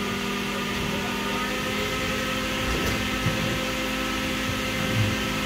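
Steady machinery hum inside the fuselage of a B-29 Superfortress during its engine-start sequence. It holds several constant tones, with a couple of faint knocks.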